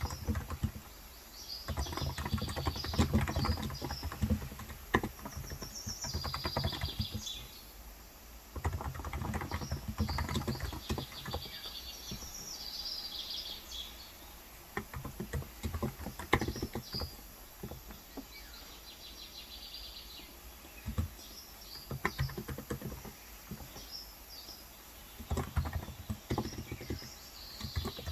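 Typing on a Cox Endeavour electrostatic capacitive keyboard with 35 g switches, in bursts of clicks a few seconds long with pauses between. Birds chirp throughout.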